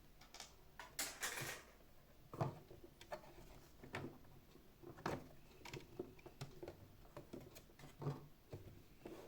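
Light clicks and small knocks of plastic parts and tools being handled while a robot vacuum is taken apart, with a short rustle about a second in.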